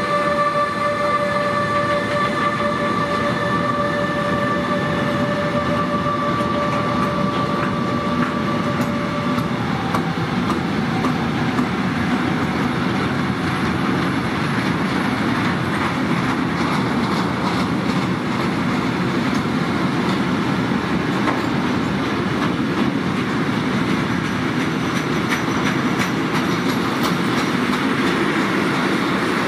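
Freight train passing behind two DB Class 185 electric locomotives: a steady high whine from the locomotives stops about ten seconds in. The rolling rumble and clatter of loaded open freight wagons on the track carry on steadily after it.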